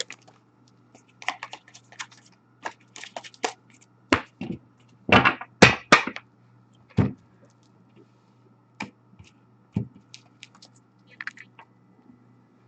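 Trading cards handled on a table: scattered clicks, taps and a few short scrapes, irregularly spaced.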